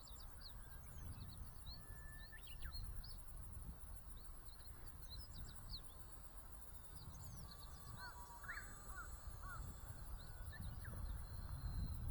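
Outdoor birds chirping with many short, quick calls, over a low rumble of wind on the microphone and a faint steady high-pitched tone.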